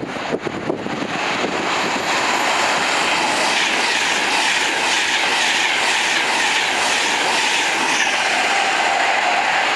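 A train passing close by at a station, its wheels clattering over the rails. The noise builds over the first couple of seconds, stays loud and steady, then cuts off suddenly at the end.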